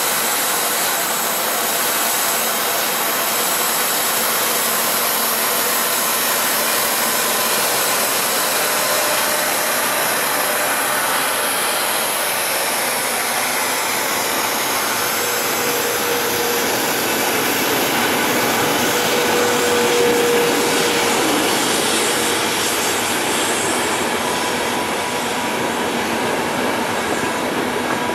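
Intercity train hauled by an E402B electric locomotive rolling past on the track: a steady rushing noise of the coaches' wheels on the rails, with a faint thin whine for a few seconds about halfway through.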